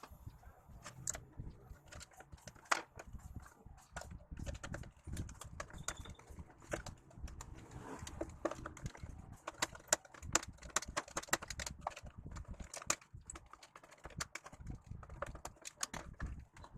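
Irregular light clicks and taps, coming thick and fast at times, like small hard objects being handled and knocked together.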